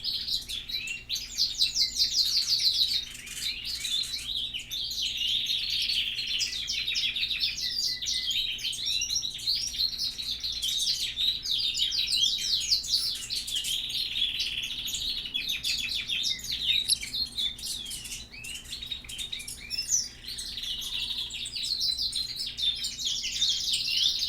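A flock of small birds chirping and twittering without pause, many short high calls and trills overlapping.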